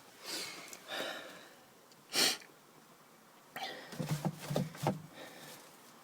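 A person sniffing and breathing in short noisy bursts, the sharpest about two seconds in, followed by a cluster of short rustles and knocks about four seconds in.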